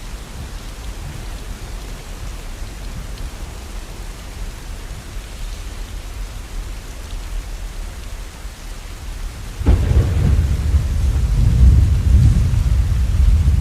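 Steady falling rain, then about ten seconds in a sudden clap of thunder that goes on as a long, deep rumble.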